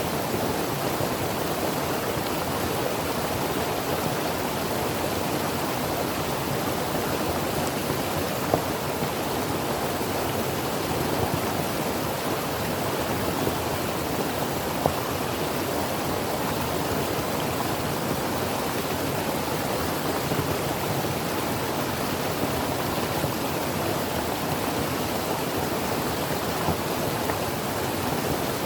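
Creek water flowing steadily in a continuous rushing burble, with the odd faint splash or click.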